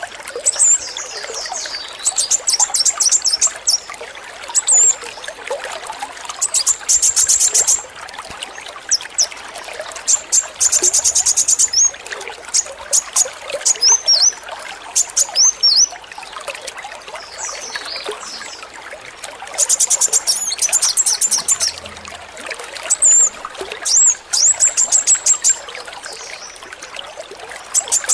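Male kolibri wulung sunbird singing: high, sharp chirps and whistles broken by several fast, rattling trills, the machine-gun-like song that bird keepers call the 'AK-47'. Water trickles steadily underneath.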